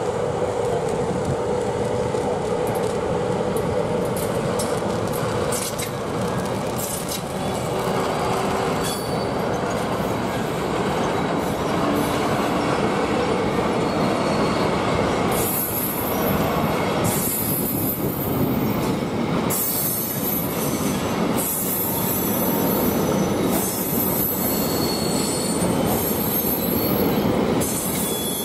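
Green Cargo electric locomotive hauling a freight train of covered wagons and tank wagons rolling past, its wheels rumbling steadily over the rails. From about halfway, high-pitched wheel squeals come and go every couple of seconds as the wagons pass.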